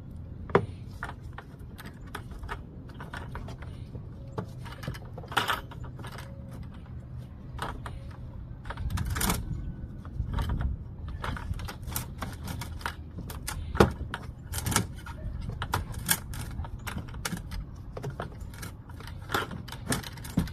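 Irregular clicks, clanks and knocks of hand tools and parts being handled, over a steady low rumble; the sharpest knock comes about two-thirds of the way through.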